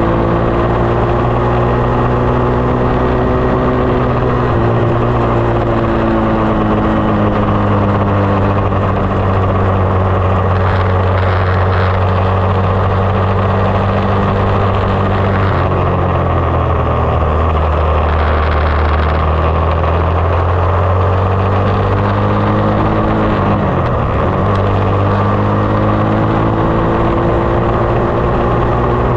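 SSR 189 dirt bike engine running under way, its pitch changing with throttle: the note drops about halfway through, and near the end it dips sharply and climbs back.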